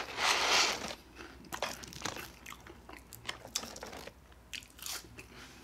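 Close-up chewing and crunching of fries, with many short wet clicks and crackles. It opens with a loud crackling burst lasting just under a second.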